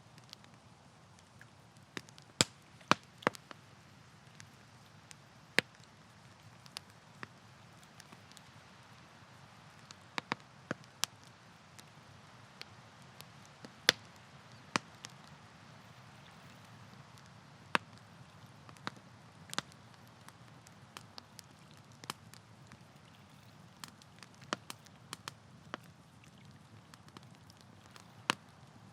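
Campfire crackling: irregular sharp pops and snaps, a few of them loud, over a low steady hiss.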